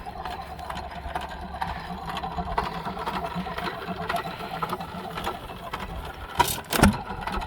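1925 Hercules single-cylinder hit-and-miss gas engine running, a steady rapid mechanical clatter, with two sharp bangs about half a second apart near the end.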